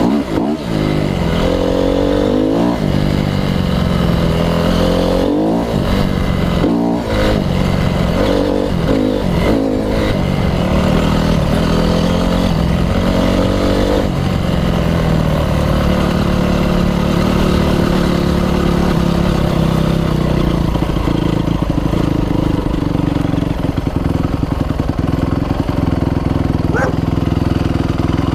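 Dirt bike engine on a ride, revving up and down through the gears, then running at a steady speed for the second half.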